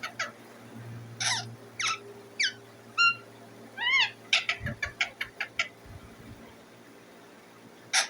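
Indian ringneck parakeet chirping: a quick run of short, sharp calls mixed with a few clear whistled notes, some rising and falling in pitch. After a brief lull, a loud call comes near the end.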